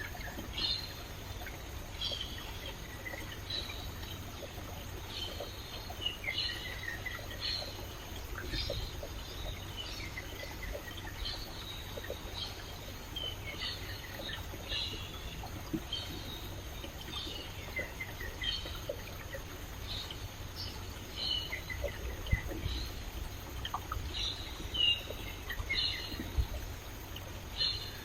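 Stream water flowing and trickling steadily, with birds calling in many short chirps throughout.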